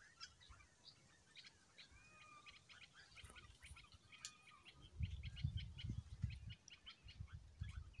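Small birds chirping and twittering in the trees, many short quick notes with an occasional short whistle, faint. From about five seconds in, a low rumble comes in underneath.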